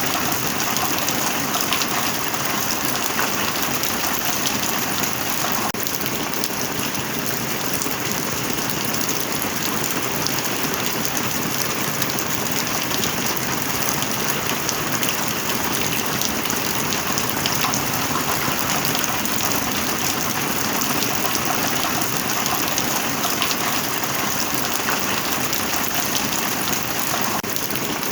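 Heavy rain falling steadily, a dense patter of drops hitting a surface with no let-up.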